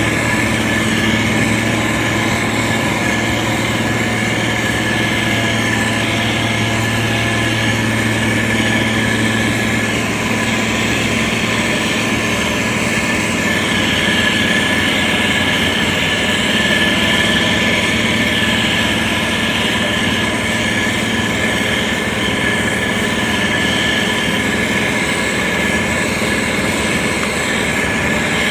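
Diesel engine of a SANY STG190C-8S motor grader running steadily under working load, with a constant low hum and a steady high whine over it.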